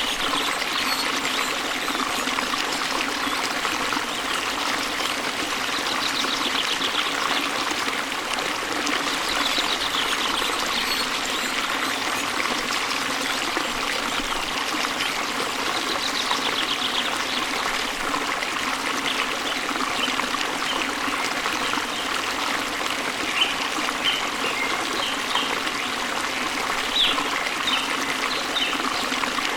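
A waterfall splashing into a stream and the water flowing on in a steady rush, with birds chirping over it: a few short trills, then a run of brief chirps near the end.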